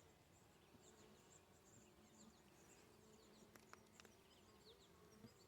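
Faint buzzing of honey bees from an open hive, a low wavering hum, with a couple of soft clicks about three and a half seconds in.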